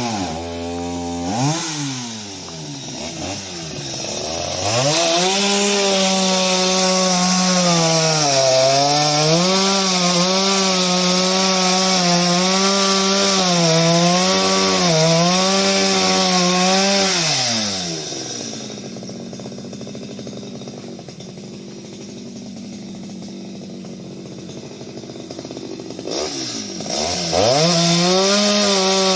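Two-stroke chainsaw at full throttle cutting wood, its pitch sagging and recovering again and again as the chain loads up in the cut. Past the middle it falls back to idle for several seconds, then revs back up near the end.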